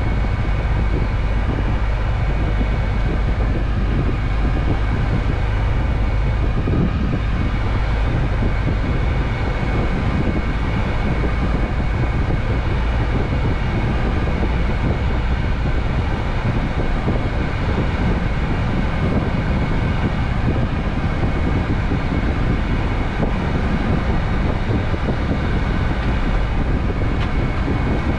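Scania truck driving at a steady pace: engine and road noise that runs on evenly without any change.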